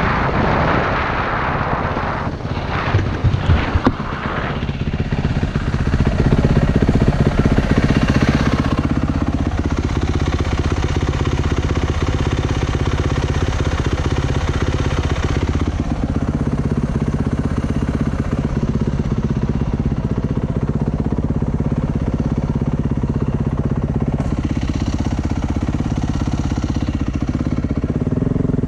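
Motorcycle engine running steadily while being ridden. A broad rushing noise and a few irregular knocks sit over it in the first five seconds.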